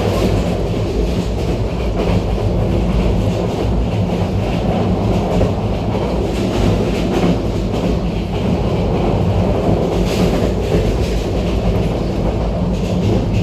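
A moving train running steadily: a continuous low rumble with wheels clattering over the rails.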